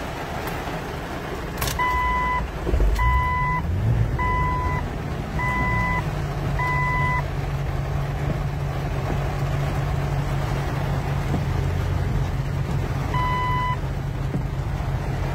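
A Jeep's engine started with a click of the key: it catches about two and a half seconds in, flares up and settles to a steady idle by about six seconds. A dashboard warning chime sounds five times, about once a second, then once more near the end, over the hiss of heavy rain on the vehicle.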